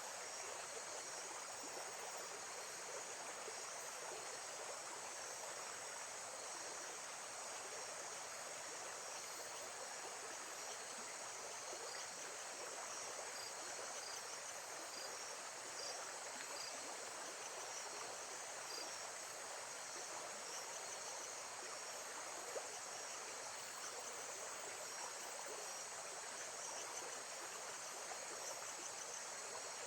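Steady, gently running water with faint insect chirping in a lake-side nature ambience; a single faint click about two-thirds of the way in.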